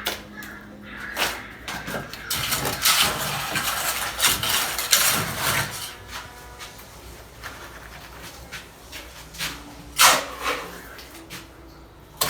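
Masonry work with a trowel, mortar and bricks: irregular scraping and knocks. A dense run of scraping comes in the first half, a sharp knock about ten seconds in.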